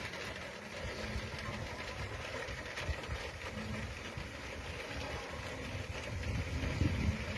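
Distant thunder rumbling low and steady under a faint hiss of open air, swelling slightly near the end.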